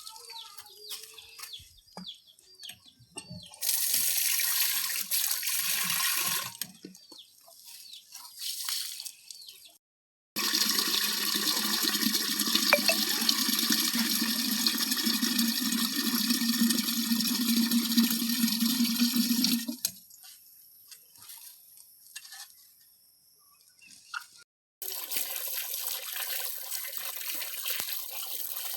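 Water pouring and splashing in several separate stretches, the longest about ten seconds in the middle, each starting and stopping abruptly.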